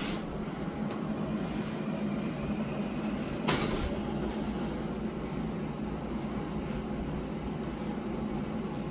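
Steady low background hum, with a single sharp click about three and a half seconds in.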